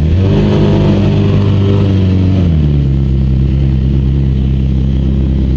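Motorcycle engine running, its revs dropping about two and a half seconds in and then holding at a steady lower pitch.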